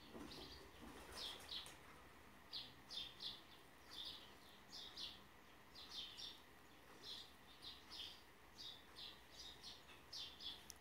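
Faint bird chirping in the background: short high chirps, often in quick pairs, repeating irregularly about once a second over low room tone.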